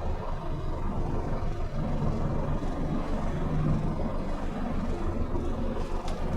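Scania bus engine and drivetrain running at steady revs: a continuous low rumble with no change in pitch. A faint click comes near the end.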